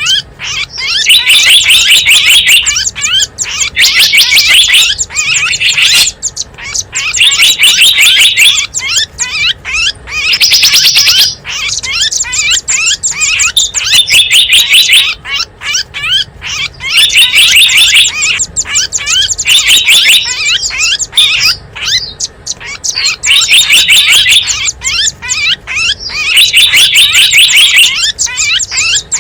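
Recorded calls of small wild songbirds played as a bird-lure track: fast, high-pitched chirps packed into loud bursts of a second or two, repeating every two to three seconds.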